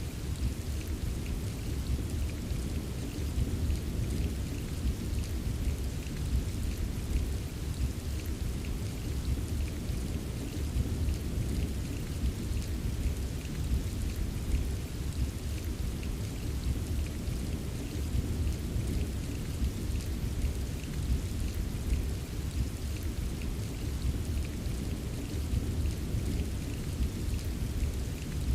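Steady rain with a continuous deep rumble underneath and a faint patter of drops; no single thunder crack stands out.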